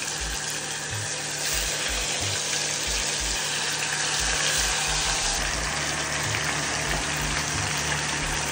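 Chicken 65 deep-frying in hot oil, a steady sizzle.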